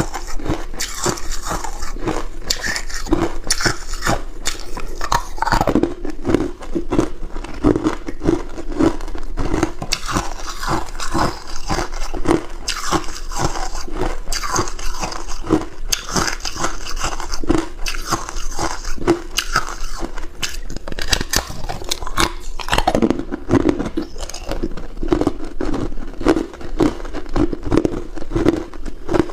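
A person biting and chewing hard ice cubes close to the microphone: a dense, continuous run of loud crunches and cracks in a steady chewing rhythm.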